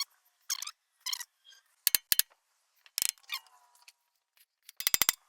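Sharp metal clicks and clinks from hand tools and parts: a few single clicks, then a quick run of clicks near the end.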